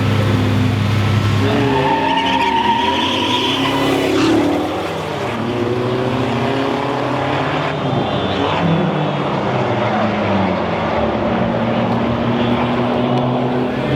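Sports car engines running and revving, their pitch rising about one to two seconds in, with a brief high squeal soon after.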